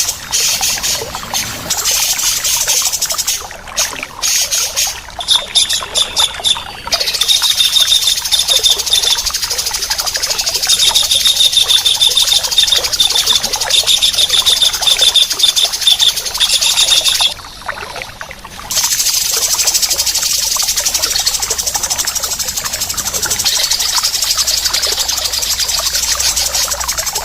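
Recorded songbird calls: harsh, rough rasping calls ('besetan') mixed with rapid high trills, with a short lull about two-thirds of the way through.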